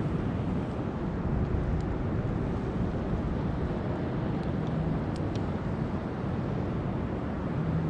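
Steady wind and sea noise on open water, rough and low, with a faint low hum that comes and goes and a few light clicks.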